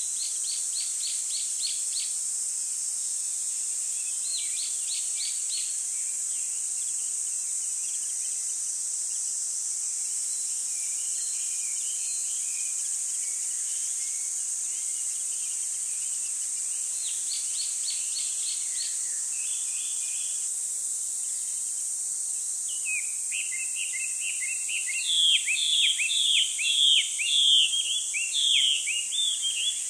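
Small birds chirping in short, rapid trills every few seconds, then a busier, louder run of chirps over the last several seconds, all over a steady high-pitched hiss.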